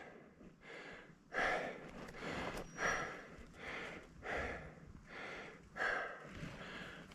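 A mountain biker breathing hard after riding: quick, rhythmic breaths about one every three-quarters of a second, starting about a second in.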